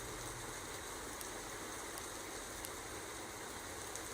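Rain falling steadily: an even hiss with a few faint ticks.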